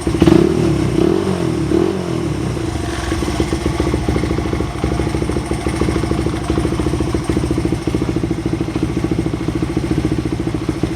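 Honda Ape100's single-cylinder four-stroke engine breathing through a custom aftermarket muffler: three quick throttle blips in the first two seconds, then a steady idle.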